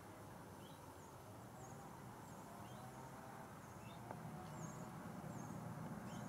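Quiet meadow ambience: short high bird chirps repeat roughly once a second over a low, steady hum.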